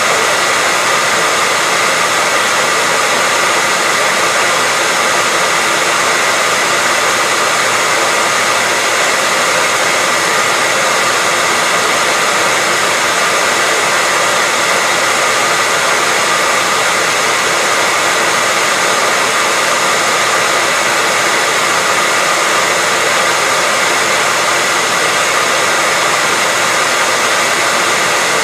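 Electric hair dryer running steadily: an even blowing rush with a steady whine, with no change in speed.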